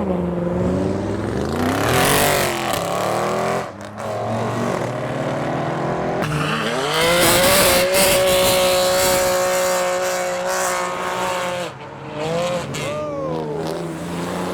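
Modified cars' engines revving and accelerating as they drive out, rising and falling in pitch. Midway, one engine climbs and holds high revs for about four seconds, then drops off suddenly.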